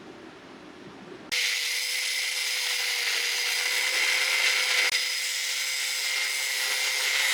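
Angle grinder starts abruptly about a second in and runs steadily on steel: a steady whine under a loud hiss.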